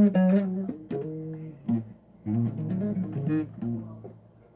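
Bass guitar played as a run of single plucked notes between sung lines, loudest at the start and fading towards the end.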